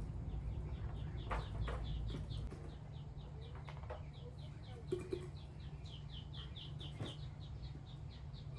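Chickens in a farmyard: a rapid, even run of short high peeps, about four or five a second, starting about a second in, with a few soft knocks.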